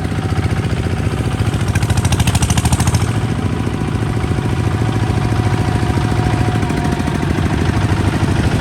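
Kubota ZT155 DI single-cylinder diesel engine running steadily, its firing pulses coming in a quick even beat. About two seconds in there is a brief brighter, higher-pitched rattle over the engine.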